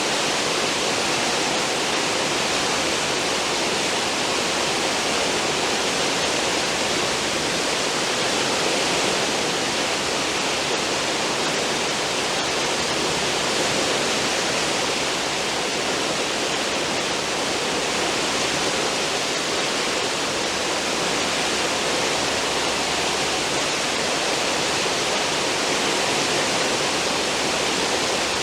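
Cruise ship's stern wake: churned water foaming and rushing in a steady, unbroken hiss.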